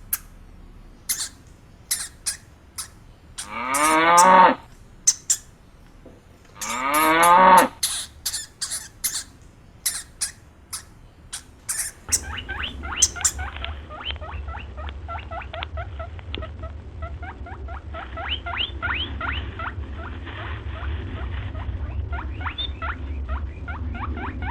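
A cow mooing twice, two long calls that rise and fall in pitch, among scattered sharp clicks. About halfway through, the sound changes to a rapid series of short, high, rising squeaks from another small animal over a steady low hum.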